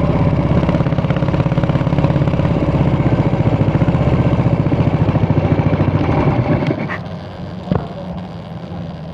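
Yamaha SR400's single-cylinder engine idling through its exhaust with an even, rapid pulse, then stopping abruptly about two-thirds of the way through, leaving a quieter background with a sharp click.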